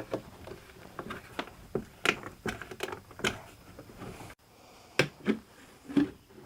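A scattered series of light clicks and knocks, a dozen or so at uneven intervals, with the sharpest ones about two seconds in and again near the end.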